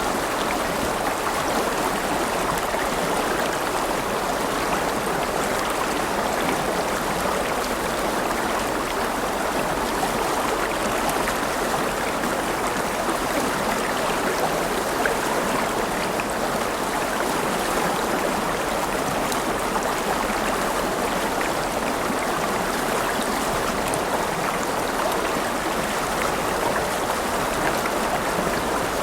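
River water rushing and babbling over rocks in a steady, unbroken flow.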